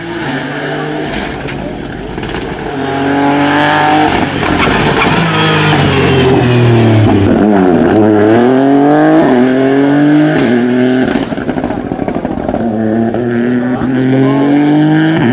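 Rally car engine at full throttle, revving up through several quick gear changes as it passes. It is loudest in the middle, where the pitch drops briefly and then climbs again.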